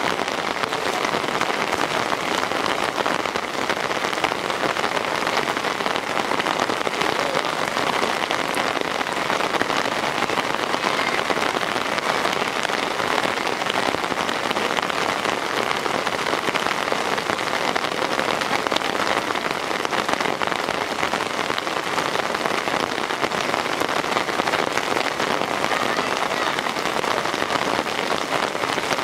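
Heavy downpour: a steady, even hiss of rain falling on hard surfaces.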